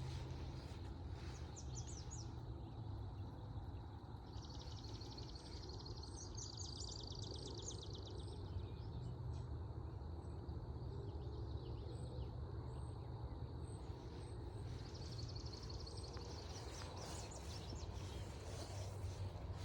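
Forest-trail ambience: a steady low rumble under high, rapid trills and faint repeated chirps from wild birds or insects, one long trill about four seconds in and another near the end.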